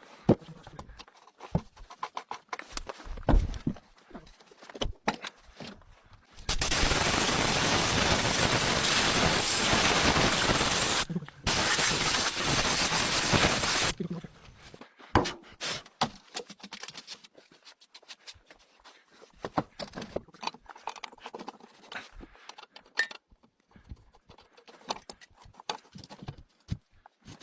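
A loud, steady hiss of rushing air or spray that starts and stops sharply, in two blasts of about five and three seconds with a short break between. Scattered clicks and knocks come before and after it.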